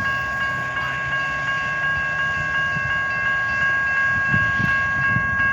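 Train at a grade crossing: several steady high-pitched ringing tones over a low rumble that grows stronger later on.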